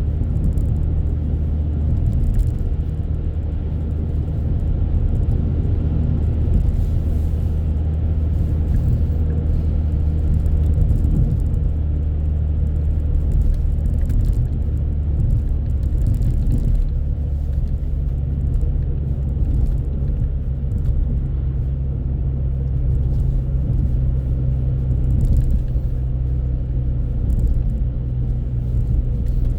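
Car driving: a steady low rumble of engine and road noise that holds evenly throughout.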